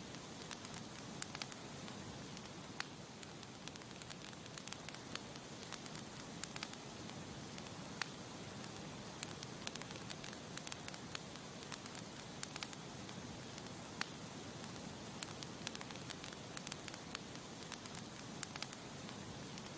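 Wood campfire burning and crackling: frequent sharp, irregular pops and snaps over a steady soft hiss.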